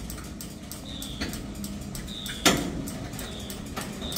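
Freight train boxcars rolling slowly past, their wheels and couplers clicking and knocking, with one loud clack about two and a half seconds in. Short high squeaks come about once a second.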